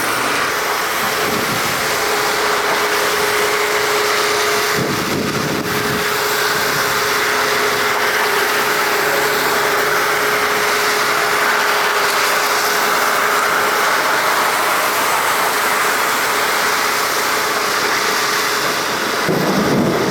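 Jet engines of an Airbus A330-300 airliner on landing approach: a steady roar with a faint held tone through it. A low rumble swells near the end.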